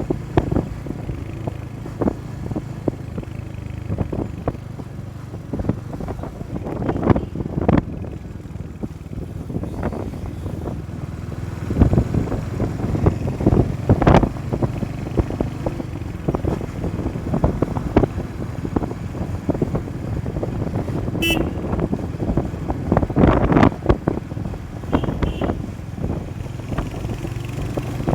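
Motorcycle running along the road, with wind buffeting the microphone in frequent thumps. Short horn beeps sound a few times in the last third.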